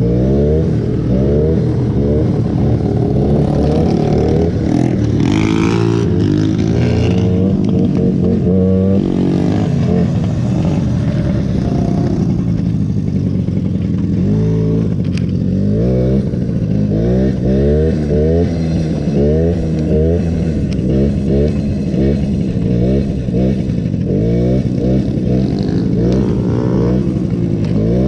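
Small mini bike engine revving up and down again and again, its pitch rising and falling with the throttle as it is ridden.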